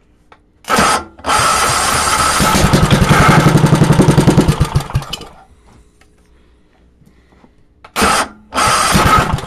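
10-horsepower Tecumseh single-cylinder engine being cranked on its electric starter: a short crank, then a longer pulsing crank of about four seconds, then two more short cranks near the end, without the engine staying running. A cold start with the choke just released.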